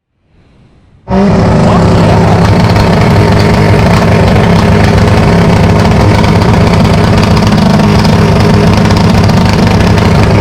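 A very loud vehicle engine held at steady high revs, cutting in abruptly about a second in.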